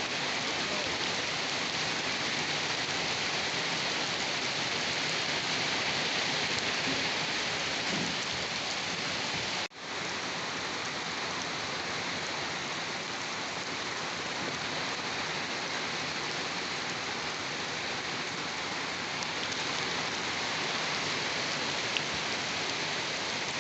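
Steady rain falling, an even hiss of drops pattering on a surface, which cuts out for an instant about ten seconds in.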